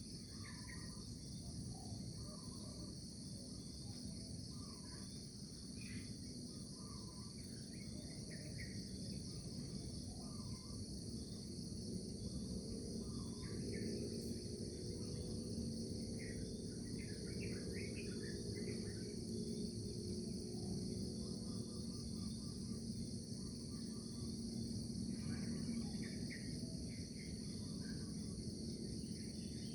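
Outdoor nature ambience: a steady, pulsing chorus of crickets or other insects, with short bird calls scattered through it.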